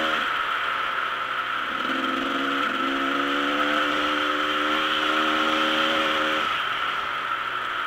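Dirt bike engine running under way, its pitch climbing about two seconds in, holding steady, then dropping off near the end, over a constant hiss.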